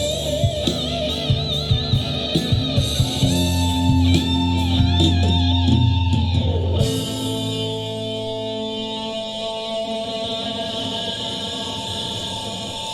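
Live rock band playing, with drums and electric guitar and a lead guitar line that wavers in pitch. About seven seconds in, the drums stop and held guitar notes ring on more quietly.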